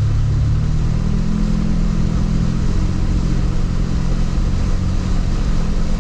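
Jeep Wrangler LJ's 4.0-litre straight-six engine running steadily as it drives, its pitch rising slightly about a second in and then holding.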